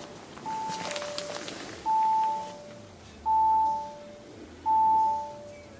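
Car warning chime sounding four times in a row, roughly every second and a half, each a high note followed by a lower one; the first is softer and the next three louder. It comes from a 2020 Audi RS6 Avant's cabin.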